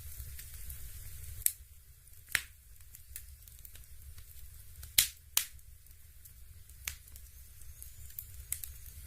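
Crackling-log sound of a Dimplex Opti-V electric fireplace: irregular sharp crackles and pops, the loudest about one and a half, two and a half, and five seconds in, over a faint hiss and a low steady hum.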